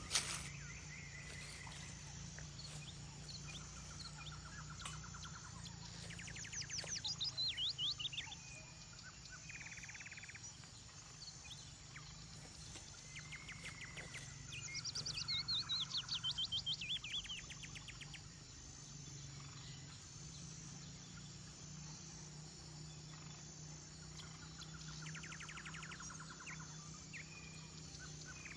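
A songbird singing the same fast trilled phrase three times, about every nine seconds, each a quick falling run of notes with a buzzy trill, and short chirps in between. A faint steady low hum runs underneath.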